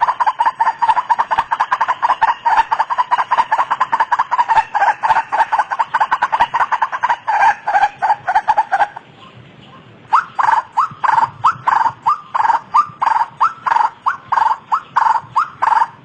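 White-breasted waterhen calling: a fast run of repeated harsh notes, a break about nine seconds in, then a slower series of rising notes, about three a second.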